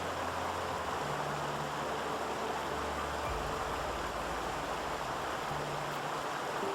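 Steady rushing of a clear mountain stream flowing over mossy rocks, with faint low held music notes underneath.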